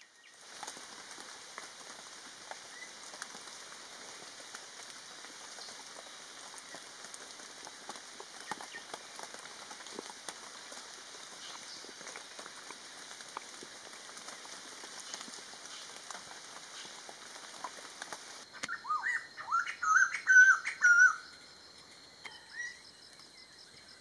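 A steady hiss of background noise with faint scattered ticks, then about eighteen seconds in a bird calls loudly in a quick run of chirped, sliding notes lasting about three seconds. A faint steady insect-like trill with a ticking rhythm follows.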